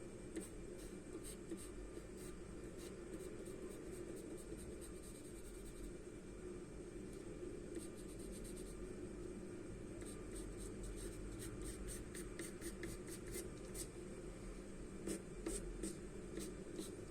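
Charcoal pencil scratching on paper in quick short strokes, coming in runs that grow busier in the second half, over a steady low hum.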